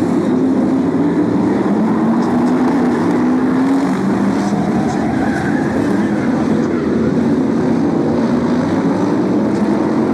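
BriSCA F1 stock car V8 engines running on the track, a loud steady drone whose pitch wavers up and down as the cars accelerate and back off.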